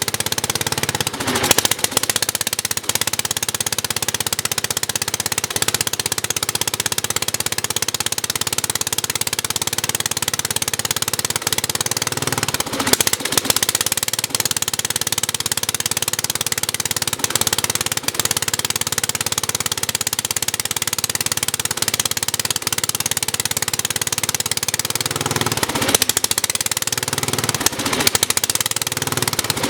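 Sears Suburban 10 garden tractor's cast-iron Tecumseh single-cylinder engine running steadily, shortly after a cold start, with a few brief surges in speed: about a second in, near the middle and near the end.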